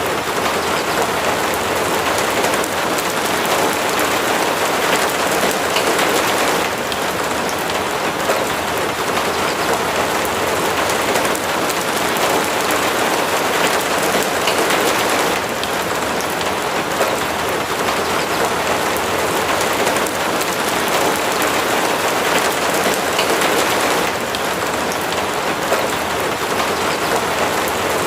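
Steady rain falling, a dense, even hiss of many drops with no pauses.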